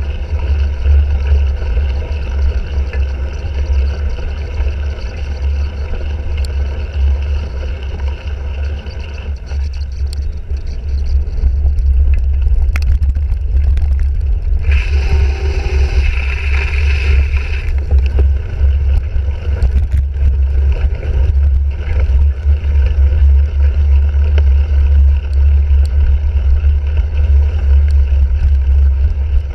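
Heavy low wind rumble on a bike-mounted action camera's microphone during race riding, with scattered clicks and rattles from the bicycle. About halfway through a louder hiss sets in for roughly three seconds.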